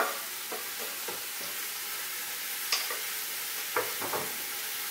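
Steady sizzle of chicken carcasses, bacon, leek and onion frying in olive oil in a steel stockpot, with about half a dozen short, sharp knocks of utensils and the wooden chopping board.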